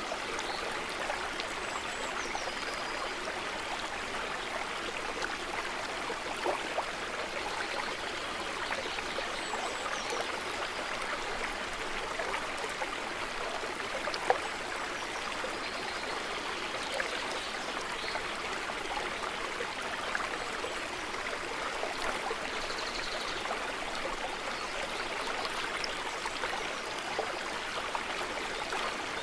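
Running water of a small stream, a steady rushing with small splashes and trickles, with a few faint bird chirps above it.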